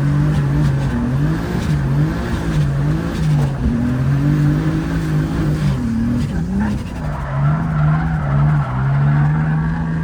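Turbocharged BMW E30 drift car's engine revving up and down over and over as it is driven hard, the revs climbing again near the end, with tyre noise beneath.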